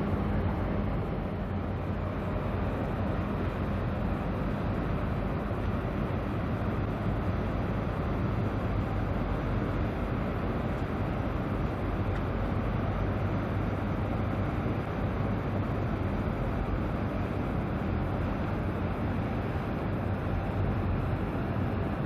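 Steady low drone of a large car ferry's engines, with a constant hum and an even rush of noise that does not change.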